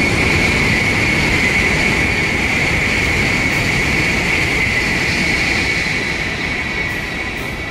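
Tokaido Shinkansen N700A passing at speed: a loud, steady rushing roar with a strong hiss in it, fading as the train moves away near the end.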